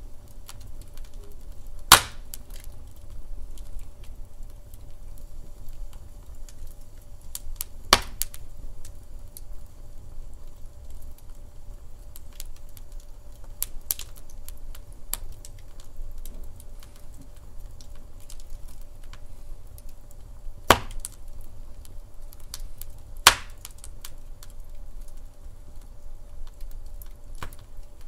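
Wood fire crackling in a fireplace: a steady run of small snaps over a low rumble, with four loud sharp pops, the first about two seconds in and two close together near the end.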